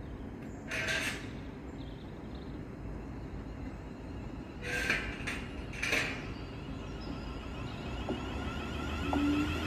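Short hisses of air from a Thameslink Class 700 electric train standing at the platform, once about a second in and three more around five to six seconds in, over a steady low rumble. Near the end another train's sound builds as it approaches on the next track.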